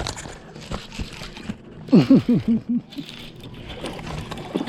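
Water splashing and dripping as a largemouth bass is let go from the kayak. About two seconds in comes a brief run of short, falling, laugh-like voice sounds.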